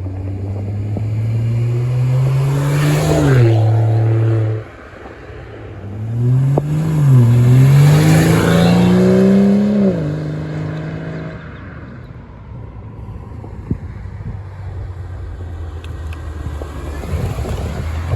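BMW E92 335i's turbocharged N55 inline-six with a muffler delete, making hard full-throttle pulls past the microphone. Twice the exhaust note climbs in pitch with a short dip at an upshift, the first pull cutting off abruptly; in between and afterwards it drops to a lower steady drone, then rises again near the end.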